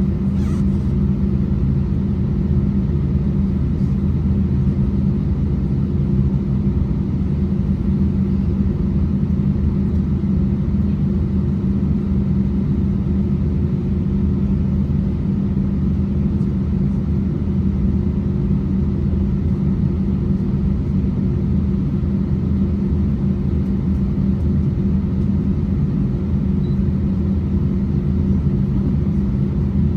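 Steady cabin drone of an Airbus A320-232 holding on the runway, its IAE V2500 engines at idle. A low, even rumble with a constant hum that does not change.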